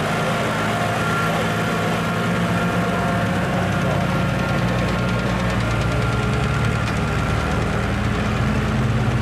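Farm tractor engine working hard under load as it pulls a weight sled, a steady low drone that grows a little louder toward the end.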